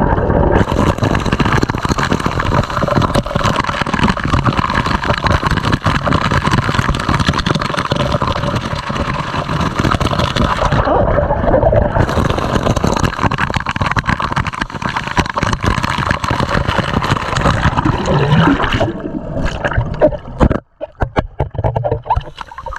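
Loud rushing, splashing water of a waterfall close to the microphone, a dense steady roar that drops away abruptly for a moment near the end.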